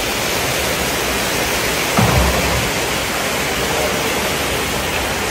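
Steady sizzling hiss of vegetables frying in a giant cooking pot, with one dull knock about two seconds in.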